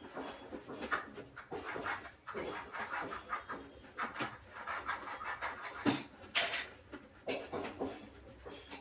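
Irregular handling noises: rubbing, scraping and short clicks in uneven bursts, with one sharp knock about six seconds in.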